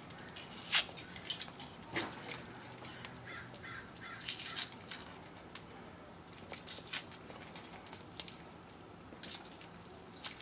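Scattered clicks, taps and scrapes of hands and tools working on the truck cab's interior parts, with a few brief bursts of rustling.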